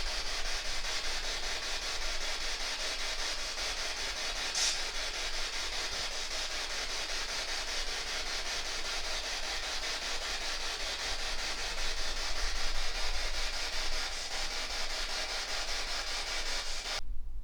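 Spirit box (radio-sweep ghost box) running, giving a steady hiss of radio static chopped rapidly and evenly as it scans, until it cuts off suddenly near the end.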